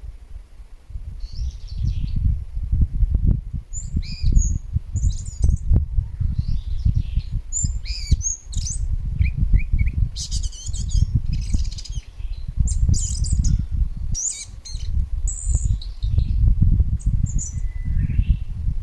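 Several small birds chirping and twittering in short, high calls, scattered throughout, over a loud, fluctuating low rumble.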